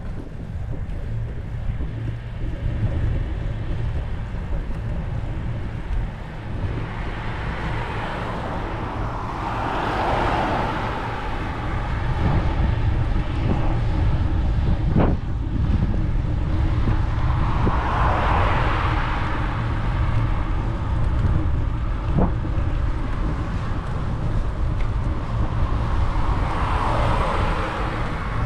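Wind buffeting the microphone in a steady low rumble, with road vehicles passing three times, each swelling up and fading away over a few seconds. Two sharp clicks come in between.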